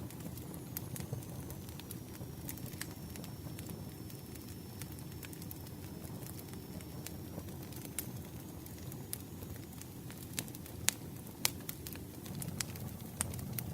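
Campfire crackling: a wood fire's steady low rumble with scattered sharp pops, a couple of louder pops about eleven seconds in.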